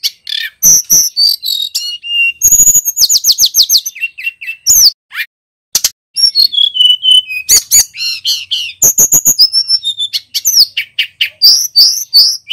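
Male tledekan gunung singing loudly and continuously: fast, varied phrases of clear whistles, rapid up-and-down sweeps and trills, broken by a couple of brief pauses near the middle.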